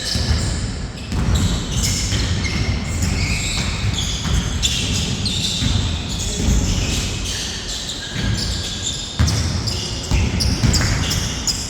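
Basketball game on an indoor court: the ball bouncing irregularly with short, high squeaks from play, echoing in a large hall.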